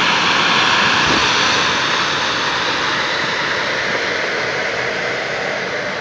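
Aircraft emergency life raft inflating from its compressed-gas cylinder: a loud, steady rushing hiss of escaping gas that slowly eases off.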